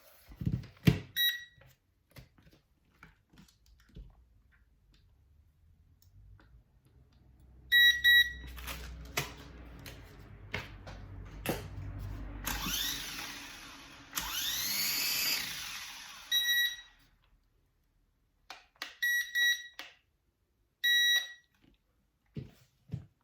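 SG907 drone electronics giving short, high electronic beeps several times, among handling clicks. In the middle its small motors whir, the whine rising and falling in pitch twice.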